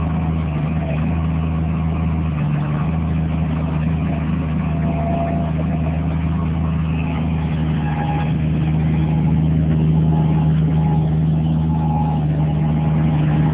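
Bobcat MT100 mini skid steer's engine running at a steady speed, slightly louder from about ten seconds in.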